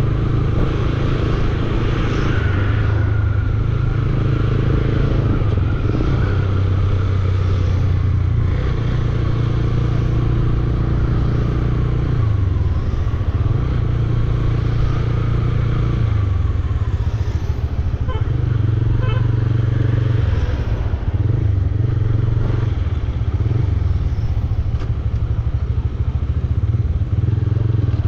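Bajaj Dominar 400's single-cylinder engine running on the move, its pitch shifting a few times with throttle and gear changes.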